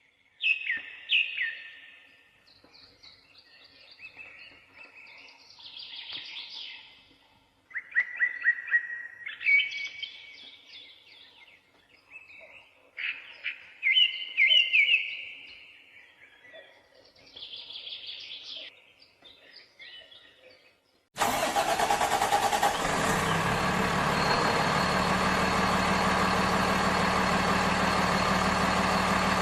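Songbirds chirping and singing in short, repeated phrases. About two-thirds of the way through, a steady engine-like drone with a constant low hum cuts in suddenly and runs evenly at a much higher level.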